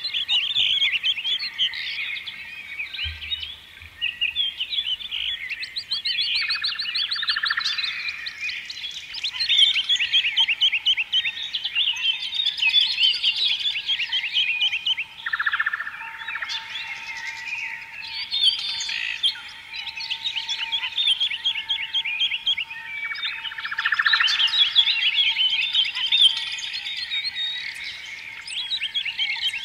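Several songbirds chirping and trilling together without a break. Buzzier trills come in three times, roughly every eight seconds.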